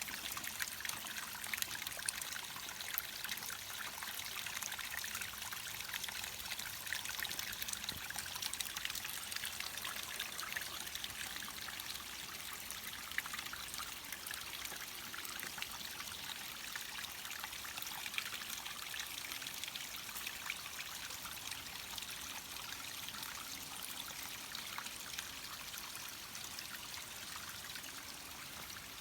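Water of a small stream trickling and babbling steadily, a dense fine splashing that eases slightly toward the end.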